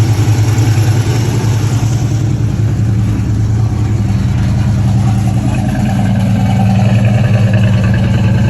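Carbureted truck engine idling steadily on its own, with a big exhaust leak audible. A higher tone joins in about six seconds in.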